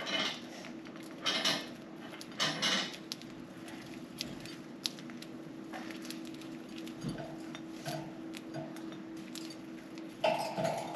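Budgerigars pecking and cracking millet seeds with their beaks: three crackly clusters of clicks in the first three seconds, then scattered single ticks, with a louder burst near the end. A steady low hum runs underneath.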